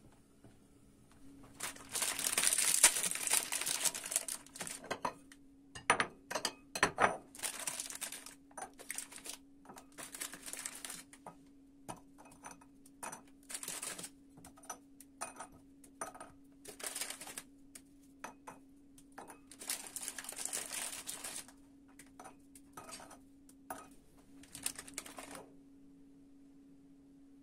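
Hands handling objects: crinkling and rustling of packaging in bursts of a second or two, with many small clicks and knocks, over a steady low hum.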